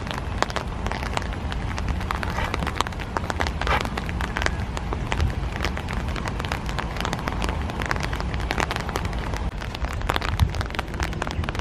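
Rain falling steadily, the drops landing as a dense patter of many sharp ticks, over a steady low rumble.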